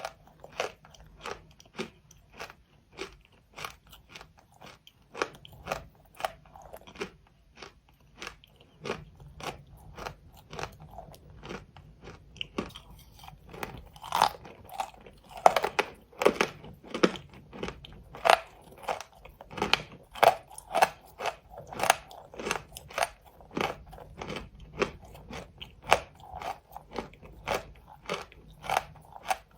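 Close-miked crunching bites and chewing of hard, brittle chalk, a steady run of sharp crunches about two a second, loudest through the middle.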